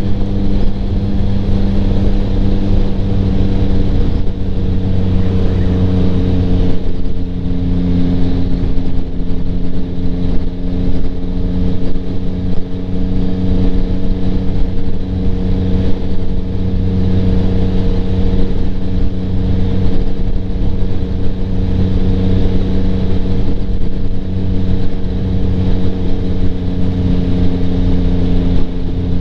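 Yamaha MT-09's 890 cc inline-three engine running through a Kelpi Flanker aftermarket exhaust at a steady cruise, its pitch nearly constant with a small shift about seven seconds in, heard from inside the rider's helmet.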